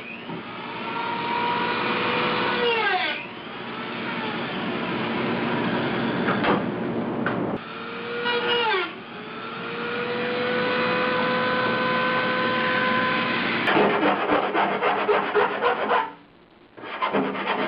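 Handheld electric grinder running on sheet-metal bodywork. Its motor pitch drops sharply twice as it is loaded and climbs back up each time. Near the end comes a dense rasping of abrasive on metal, broken by a short pause.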